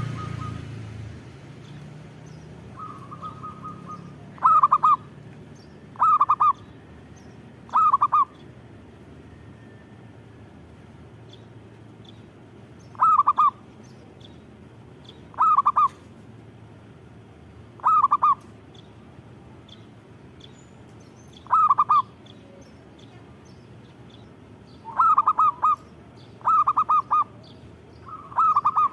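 Zebra dove (perkutut) cooing: short, rolling, trilled coo phrases repeated every few seconds, with three coming close together near the end.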